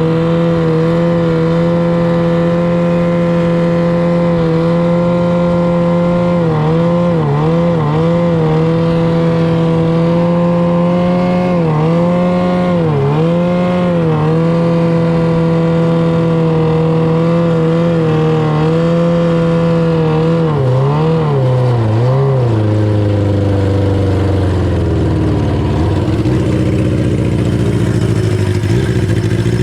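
A jet boat's 600cc engine running hard at steady revs, with several quick dips in revs as the throttle is lifted and reapplied. About three-quarters of the way through it drops to a low, slower run, then revs up again at the very end. This is a test run of the boat's new gear ratio.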